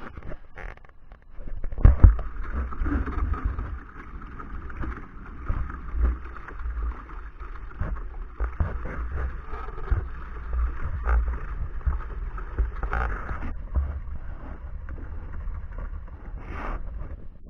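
Wind buffeting the microphone with a strong, uneven rumble, over rushing water and occasional knocks from a small sailboat under way.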